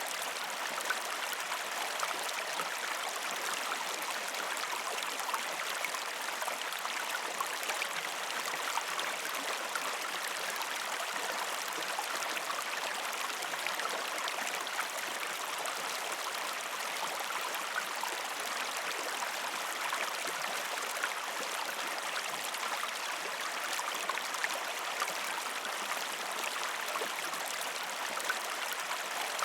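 A river stream flowing over rocks in a steady rush of water, flecked with small splashes and gurgles.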